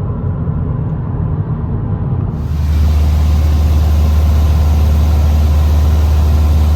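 Light aircraft engine running steadily. About two seconds in, the sound changes abruptly to a louder, steady low drone with a strong hiss on top.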